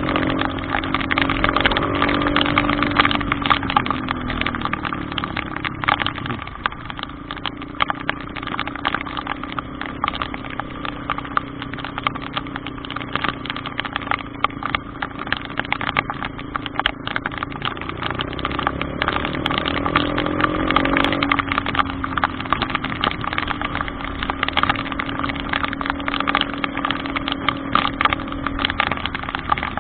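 A vehicle engine running at low speed, revving up and easing back twice, with the thick crackling patter of heavy rain throughout.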